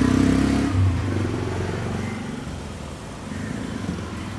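A motor vehicle's engine running with a low hum that slowly fades over a few seconds.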